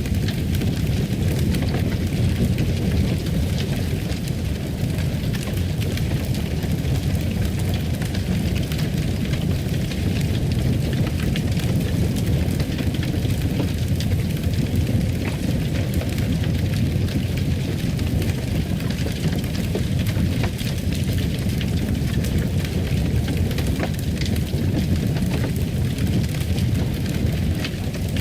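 Wood fire in a fireplace crackling, with many small irregular pops over a steady low rumble of flames.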